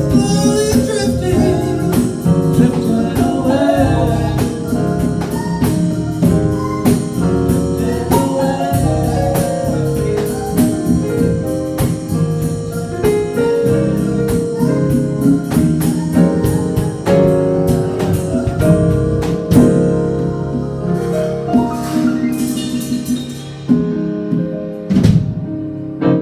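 A band playing a song with singing over a drum kit; the music thins out and gets quieter near the end, as the song winds down.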